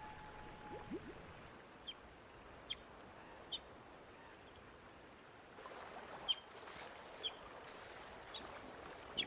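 Short, sharp, high chirps, about seven of them spaced a second or so apart, over the steady rush of river water, which grows louder about halfway through.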